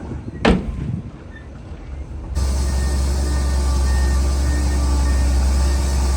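A sharp heavy knock about half a second in. Then, after an abrupt change, a heavy diesel earthmoving engine runs steadily with a deep drone.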